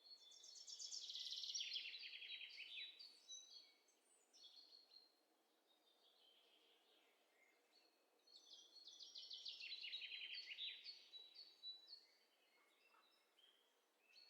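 Faint songbird singing: two phrases of quick trills that slide down in pitch, one near the start and another about eight seconds later, with thin high chirps between and after them.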